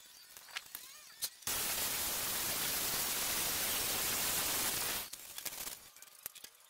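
A loud, steady hiss, starting abruptly about a second and a half in and stopping about three and a half seconds later, with faint clicks before and after.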